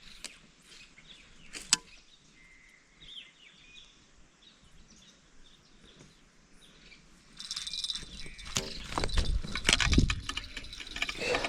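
Quiet outdoor background with faint bird chirps and a few sharp clicks. About seven seconds in, louder handling noise starts, with thumps and rapid, evenly spaced clicking.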